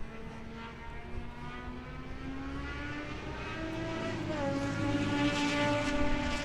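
Racing motorcycle engine running, its pitch rising slowly, then dropping about four seconds in while it grows louder.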